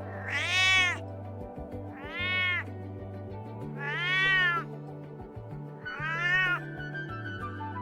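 Domestic cat meowing four times, each meow rising then falling in pitch, over steady background music.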